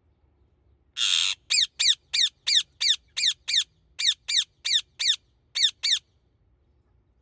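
Indian ringneck parrot calling: one harsh screech about a second in, then a rapid run of about thirteen short, shrill, falling calls at roughly three a second, in three quick groups, stopping about six seconds in.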